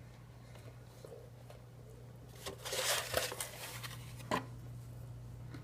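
A brief rustle of food and wrapper being handled, about halfway through, followed by a single short tap, over a steady low electrical hum.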